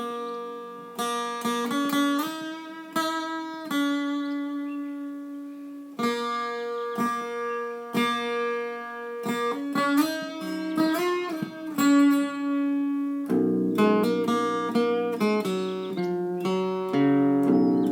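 Solo guitar picking a simple melody, single notes and ringing chords, with a few notes sliding in pitch partway through.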